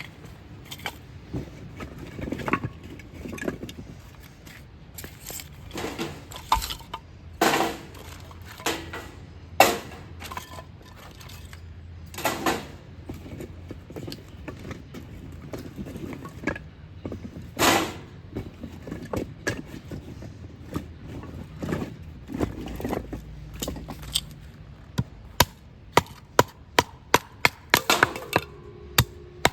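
Firewood being handled and split for a campfire: scattered wooden knocks and cracks, then near the end a steady run of sharp chopping strikes about two a second, like a hatchet or knife splitting kindling.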